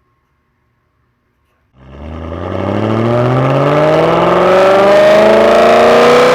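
Car engine accelerating. It starts about two seconds in after near silence, and its pitch rises steadily to the end.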